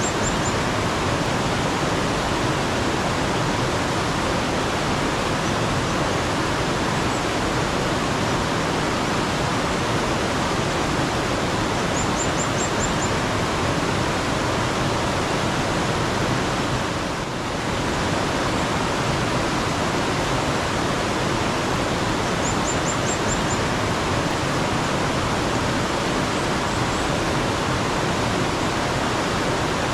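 Water running steadily in a mountain stream, a dense even rush. A small bird calls faintly over it three times, each call a quick run of about five high notes: about 12 s in, about 23 s in and near the end.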